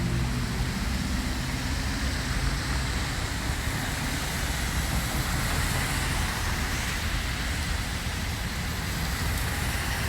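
Steady road traffic noise on a wet road: a continuous hiss over a low rumble.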